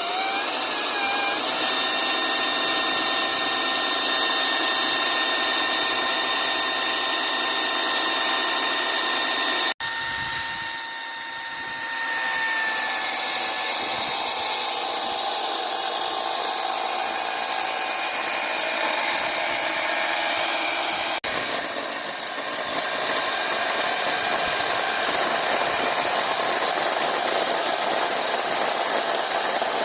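Ryobi 40V HP 20-inch brushless battery chainsaw running at speed, a steady high electric whine with chain rattle. Twice it cuts off abruptly and comes back a little quieter for a couple of seconds before settling again.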